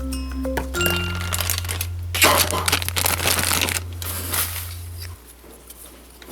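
Packaging being handled, crinkling and rustling for a few seconds, loudest in the middle, over background music whose mallet-percussion melody stops about a second in, leaving a held bass note.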